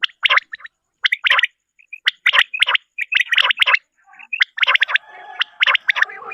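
Common quail calling: its sharp, raspy song notes come in quick groups of two or three, repeated about once a second. A fainter, steadier call runs underneath near the end.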